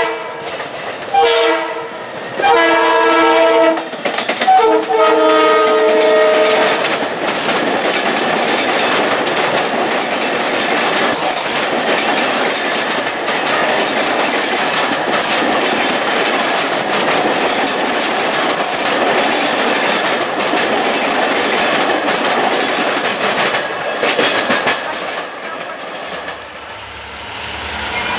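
Long Island Rail Road Bombardier M7 electric train sounding its horn for a grade crossing: four blasts in the first few seconds, the last two long. It then passes close by with a steady rush of wheels and clickety-clack on the rail joints, fading away near the end.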